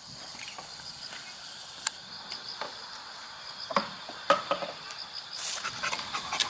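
Steady high-pitched chirping of crickets, with a few sharp clicks or taps over it, the loudest a little after four seconds in.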